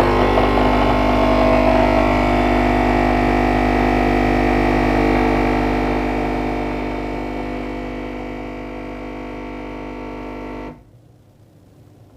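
Capsule coffee machine's pump buzzing steadily as it pushes hot water through the capsule. It slowly fades, then cuts off suddenly about eleven seconds in when the dispensing ends.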